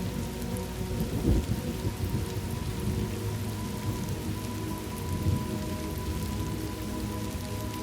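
Steady rain with low rolling thunder, the rumble swelling about a second in and again about five seconds in.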